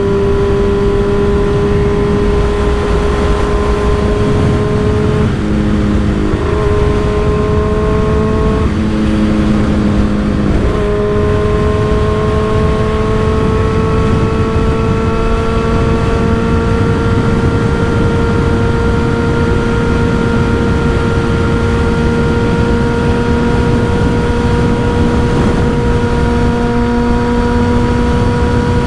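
Motorcycle engine running through an M4 aftermarket exhaust while riding, with heavy wind noise on the microphone. The engine note dips twice briefly, then climbs slowly and steadily for the rest of the stretch.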